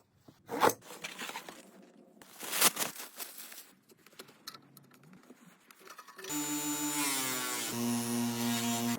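Scrapes and a couple of sharp knocks from parts and tools being handled, then about six seconds in a steady machine hum starts and shifts pitch once.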